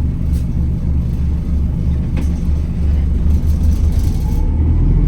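Wright Gemini 2 hybrid double-decker bus heard from inside while moving: a steady low drone from the driveline, with a couple of faint clicks of interior rattle.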